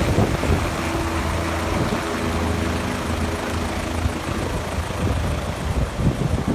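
Rescue helicopter's rotor and turbine running steadily close by, a continuous heavy whir with a low drone underneath.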